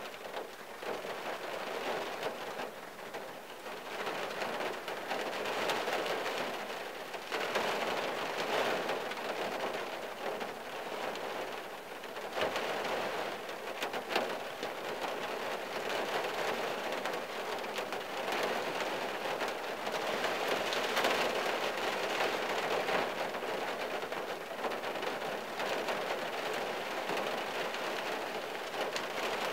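Steady rain on the windshield and body of a '74 Valiant, heard from inside the cabin. It swells and eases every few seconds, with a few sharper drop ticks about halfway through.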